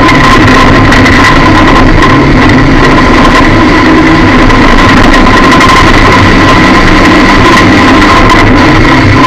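Lada demolition-derby car's engine running under way, heard from inside the cabin, loud and overloaded, with a steady high whine over it.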